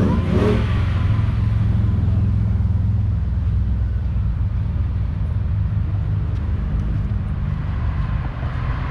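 A car's engine and exhaust rumbling steadily, a little louder over the first couple of seconds and then easing off slightly.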